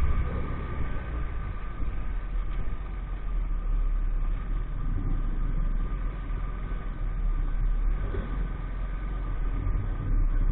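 A 50cc moped's small engine running at a steady pitch under way, with a constant low rumble beneath it.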